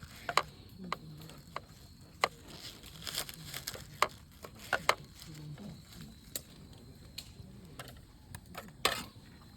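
Irregular clicks, taps and knocks of camp cooking gear and ingredients being handled, with a little crinkling, some sharper knocks near the end.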